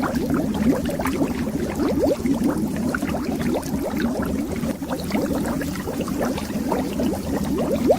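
Streams of air bubbles rising and popping underwater, a dense, continuous burble of short upward-gliding blips over a low steady rumble.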